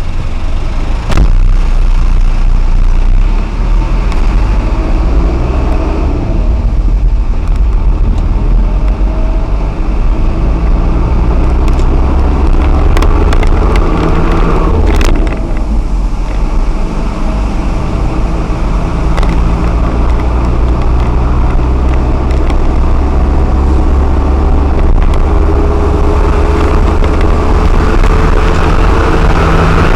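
Lorry driving on the highway: a steady, heavy low engine and road rumble, with the engine note slowly rising near the end and a couple of short clicks.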